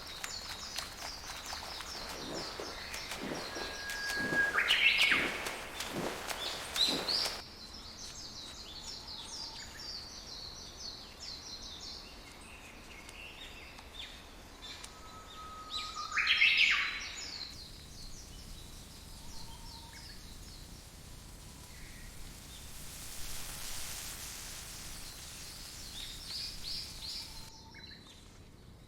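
Forest birdsong: small birds chirping high and fast throughout, with two louder calls, each a held whistle that jumps into a sharp rising note, about five seconds in and again past the middle. A few soft knocks sound in the first seven seconds.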